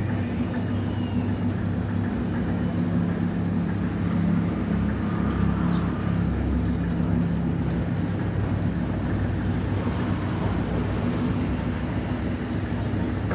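Steady low mechanical hum of a running motor or engine, with a faint noisy hiss above it.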